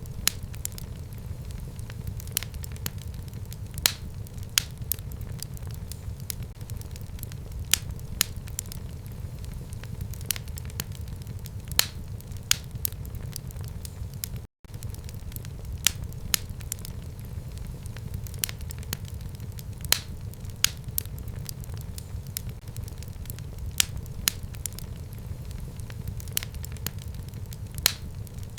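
Fire burning in a home fireplace: a steady low rumble of flames with frequent irregular sharp crackles and pops. The sound cuts out for a split second about halfway through.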